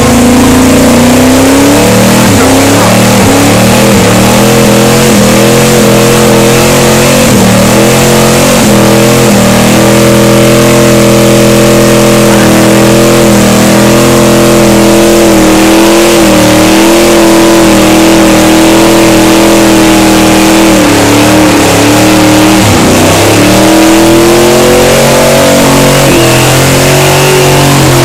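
Chevrolet Chevelle's engine held at high revs during a burnout, the rear tyres spinning in smoke. The revs step up at first, hold steady for a long stretch, drop twice briefly about three quarters of the way through, then climb again. Very loud.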